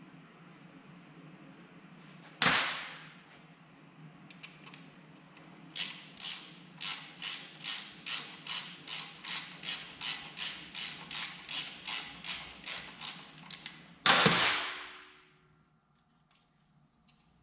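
Half-inch socket wrench ratcheting in a steady run of about twenty clicks, roughly three a second, as an engine mount bolt is backed out of the motorcycle frame. A sharp metallic knock with a ringing tail comes before the ratcheting, and a louder one comes just after it.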